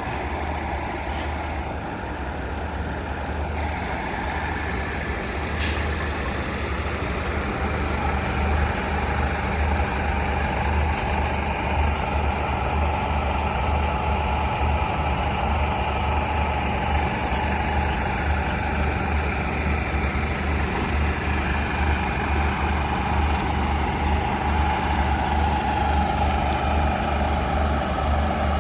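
Diesel passenger train standing at the platform with its engine idling: a steady low throb, joined about eight seconds in by a steady mid-pitched hum.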